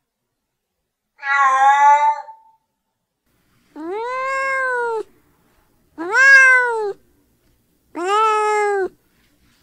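Cat meowing: four separate meows, the first shorter and flatter in pitch, then three drawn-out meows about two seconds apart, each rising and then falling in pitch.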